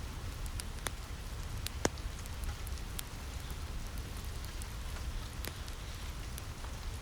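Steady rain on a roof over a low rumble, mixed with a few sharp, scattered pops from a crackling wood fire. The loudest pop comes about two seconds in.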